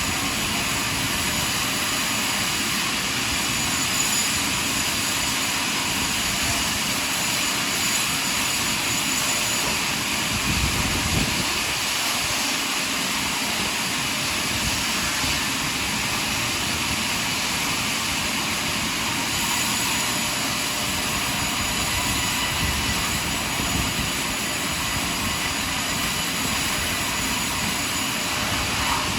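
Sawmill saw running steadily as it cuts through a large pine log, with a continuous machine noise that barely changes in level.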